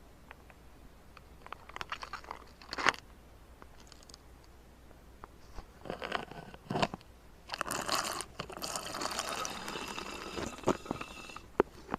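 Drinking sound effects: scattered sharp clicks, then about four seconds of continuous liquid sound from around eight seconds in, ending with two sharp clicks.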